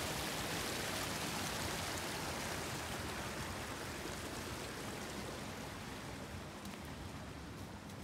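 Rushing creek water, a steady noise that fades gradually as the creek falls behind.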